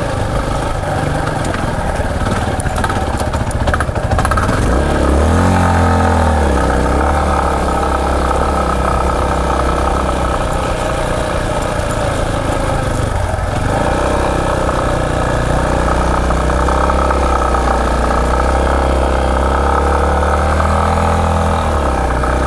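A Yamaha Serow 250's air-cooled single-cylinder engine under way on a dirt forest track, its pitch rising and falling with the throttle as the bike climbs. Rattles and knocks from the stony surface come through in the first few seconds.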